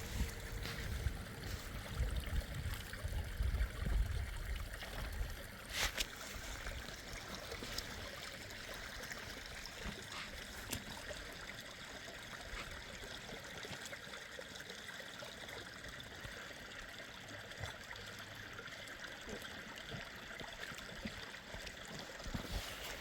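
Steady rush of running water, with low rumbling in the first few seconds and a single sharp click about six seconds in.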